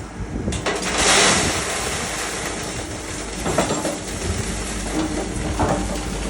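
Heavy construction machinery running steadily with a low rumble and some clatter, and a burst of hiss about a second in.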